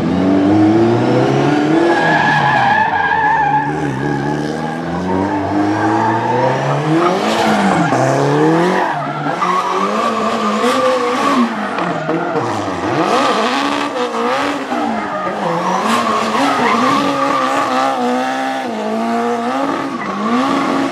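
Performance car drifting: its engine revs up and down over and over while the tyres squeal and skid.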